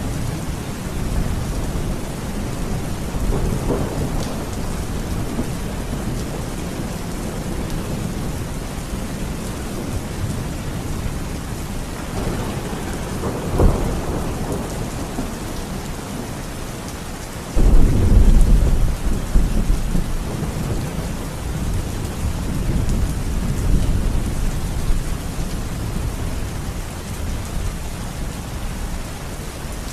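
Steady rain with rolling thunder. A sharp crack of thunder comes about halfway through, and a few seconds later a loud, deep rumble of thunder starts suddenly and rolls on for several seconds before easing back under the rain.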